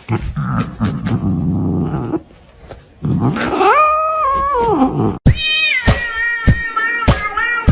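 A cat growling low, then letting out a long yowl that rises, holds and falls about three seconds in. A sudden cut just after five seconds brings in music with a high pitched melody and a steady beat.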